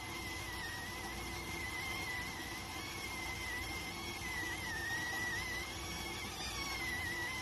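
Electric rice cooker whistling steadily as steam escapes while it cooks: one continuous high whistle that wavers slightly in pitch, over a soft hiss.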